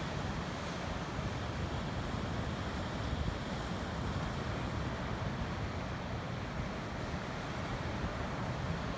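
Strong wind buffeting the microphone over ocean surf, a steady rushing noise heavy in the low end with no let-up.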